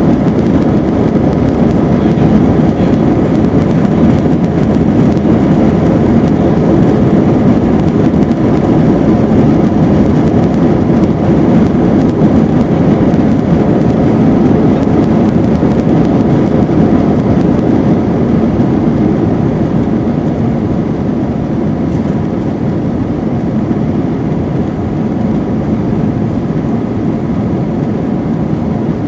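Airbus A321-231's IAE V2500 turbofan engines running steadily, heard from inside the passenger cabin as a loud, even rumble with a faint hum on top; it grows slightly quieter in the second half.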